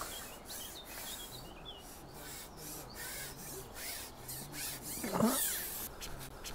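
Small birds chirping faintly over quiet outdoor ambience, with one short low vocal sound about five seconds in.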